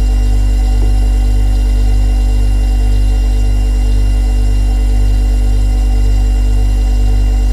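Refrigerator compressor running: a loud, steady low hum with a slow, even pulsing.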